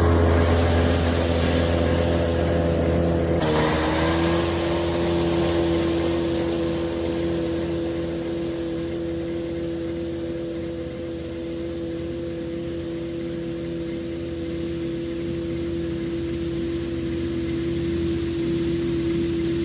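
Tractor engine running steadily under a constant note, with a brief dip in pitch about three and a half seconds in; it grows a little quieter through the middle and louder again toward the end.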